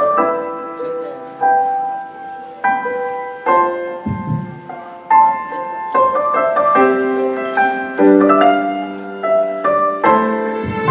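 Slow piano music: chords struck one after another, about one a second, each ringing on and fading before the next.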